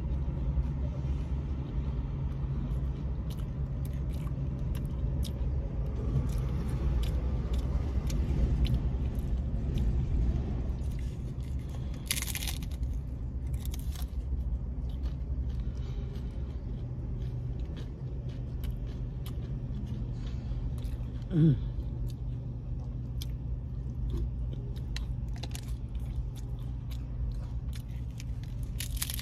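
Crisp hard-shell corn tacos being bitten and chewed, with many small sharp crunches, over a steady low hum inside the car. A short falling hum of the voice comes about two-thirds of the way through.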